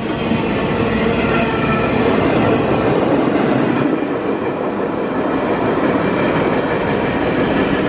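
Train passing close by on the main line: a steady rumble of wheels on rail, with faint high squealing tones from the wheels riding over it.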